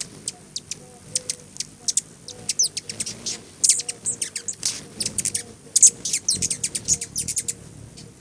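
Hummingbirds' rapid, high, sharp chip and chitter calls, many in quick succession, thickest in the middle stretch.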